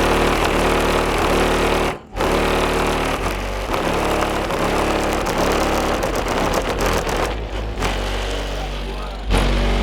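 Loud, bass-heavy music played through a pair of Skar Audio VVX 15-inch subwoofers in a Dodge Durango. It cuts out briefly about two seconds in.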